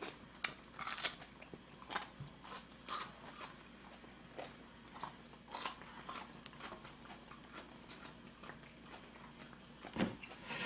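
Close-miked chewing of kimchi, with small irregular crunches a few times a second, and a somewhat louder crunch near the end.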